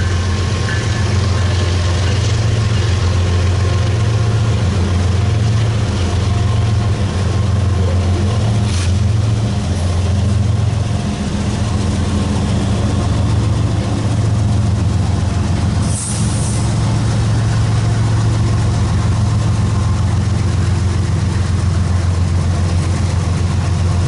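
Diesel locomotive engine running with a steady low drone, with a couple of brief sharp noises.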